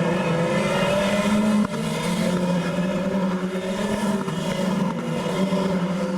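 Renault Clio Cup race car engines running hard at speed: a steady engine note with slight rises and falls in pitch, dropping abruptly in level about a second and a half in.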